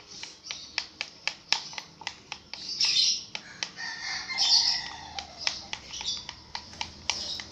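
Clear glue being stirred in a container: quick clicks and taps of the stirrer against the container, with a couple of louder scraping, squeaky strokes about three and four and a half seconds in.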